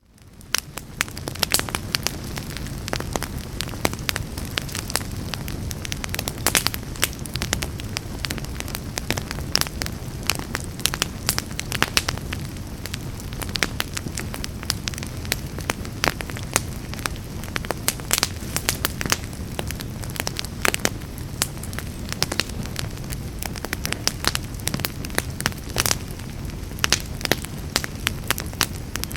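Wood fire burning in a fireplace: a steady low rumble of flames with frequent sharp crackles and pops, fading in over the first second.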